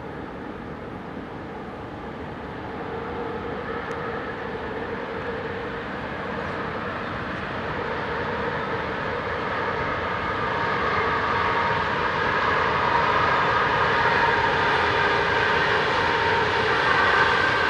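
Freight train rolling past on the line, a continuous rumble of wheels on rail that grows steadily louder as it comes nearer.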